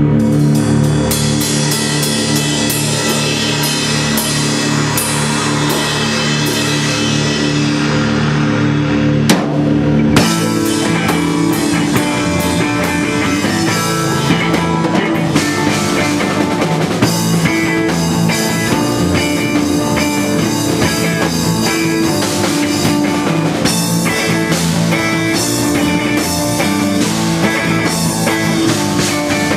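Instrumental passage of a rock song: held chords for about ten seconds, then drum kit and guitar come in and play on with a steady beat.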